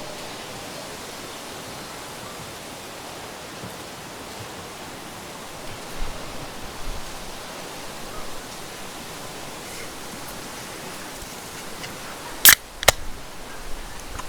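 Steady outdoor background hiss with no clear tone. There are a few soft knocks about midway, and two sharp clicks close together about a second and a half before the end.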